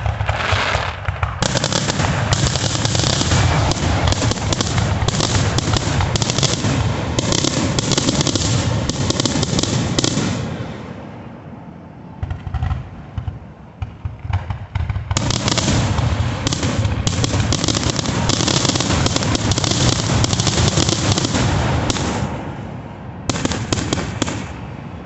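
Aerial fireworks going off in a dense barrage of rapid bangs and crackling. It eases into a lull with scattered pops about eleven seconds in, then a second barrage starts about fifteen seconds in and fades near twenty-two seconds, followed by one short last flurry.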